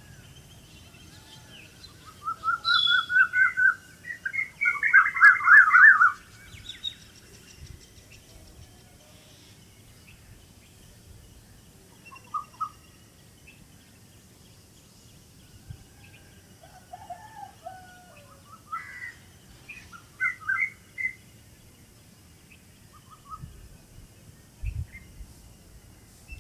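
Wild birds chirping and singing. A couple of seconds in comes a loud run of quick, trilled chirps, then scattered fainter chirps and short calls.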